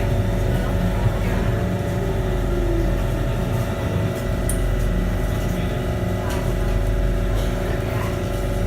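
Kawasaki Heavy Industries C151 MRT train heard from inside a car while running: a steady low rumble with constant motor whine tones, a short gliding tone about two to three seconds in, and a few light clicks.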